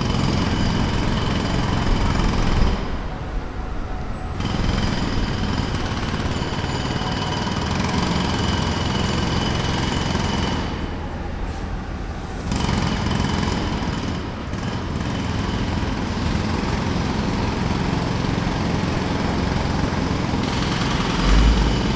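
Jackhammer hammering in long runs, stopping twice for a second or two, about three and about eleven seconds in, before starting again.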